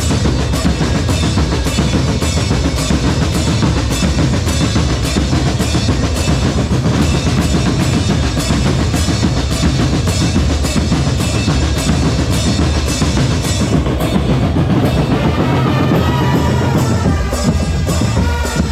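Drum corps percussion playing a fast, steady beat on bass drums and snares. A pitched melodic line comes in over the drums near the end.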